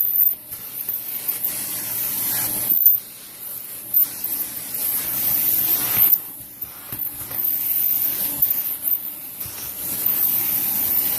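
Dyson Cinetic Big Ball Animal + Allergy vacuum pulling air through its hose and dusting brush as the brush is worked back and forth. A hissing rush of suction airflow that dips and swells several times as the nozzle moves.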